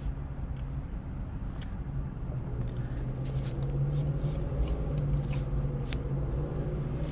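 A person eating from a pasta bowl: scattered short clicks of a fork and chewing over a steady low hum.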